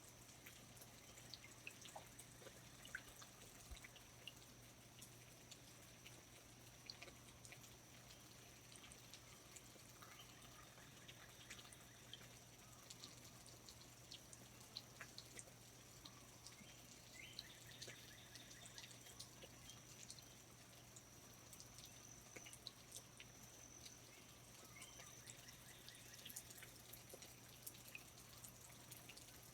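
Faint rainforest ambience: water dripping from foliage in scattered, irregular drops under a thin steady high tone.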